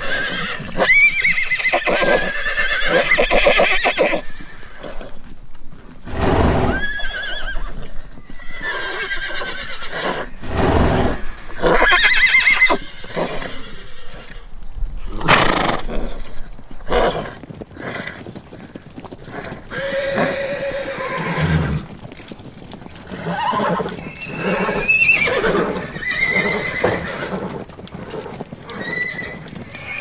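Horses neighing: a long series of separate whinnies one after another, some high and quavering, some lower, with short gaps between them.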